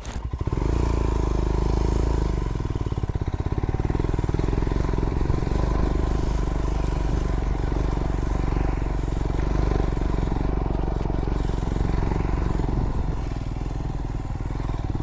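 Royal Enfield Himalayan's single-cylinder engine running under way, its pulsing exhaust note rising about half a second in and then holding steady, easing off slightly near the end.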